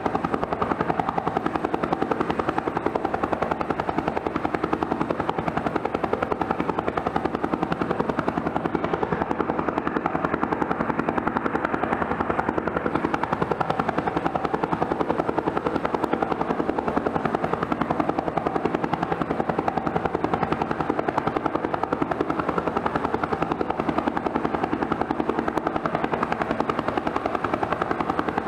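Twin-turbine Bell helicopter running steadily, its turbine and rotor noise even and unchanging, with a fast rapid flutter from the rotor.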